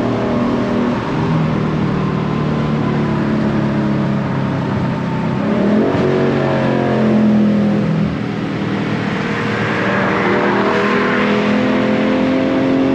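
Dodge Challenger's V8 engine heard from inside the car while driving. The engine note climbs sharply about six seconds in, drops back about two seconds later, then rises slowly toward the end as the car accelerates.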